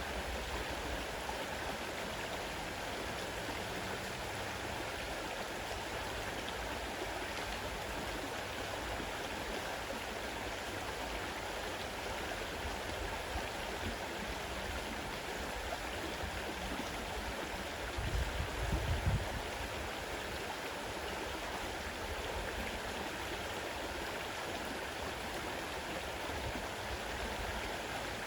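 Fast-running river: a steady rush of water over stones. Near the two-thirds mark a brief low rumble rises over it for about a second.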